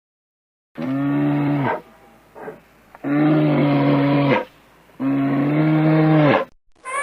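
Cow mooing three times, each call long and steady in pitch, the first starting about a second in, with a short faint call between the first two.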